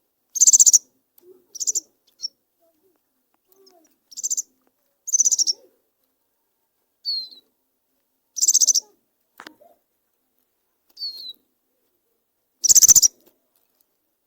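Caged finches calling: a few short falling whistles mixed with about six louder, harsh buzzy notes, each under half a second and spaced a second or more apart.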